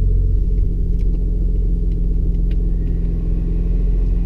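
BMW E46's engine idling steadily, heard from inside the cabin.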